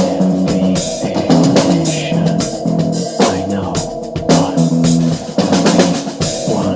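A drum kit is played in a rock beat, with bass drum, snare and cymbals, along with the recorded song, whose bass and guitar notes are held underneath.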